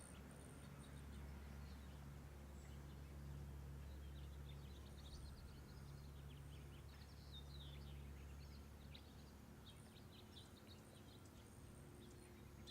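Near silence: a low steady room hum, with faint short bird chirps now and then, mostly in the middle of the stretch.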